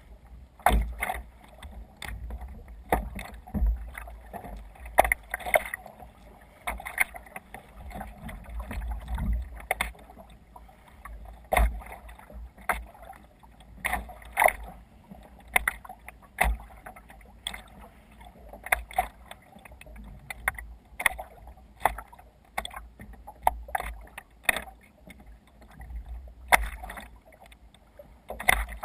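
Kayak paddling on open water: regular splashes of the paddle blade entering and leaving the water, about one stroke a second, with water running along the hull.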